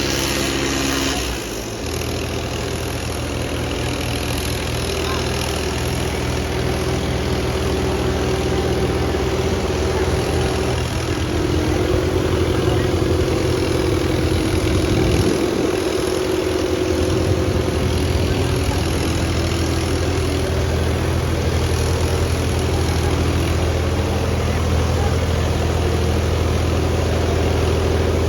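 Diesel tractor engines running steadily under heavy load in a tractor tug-of-war pull, a continuous low drone that grows slowly louder, with a shift in the engine note about eleven seconds in.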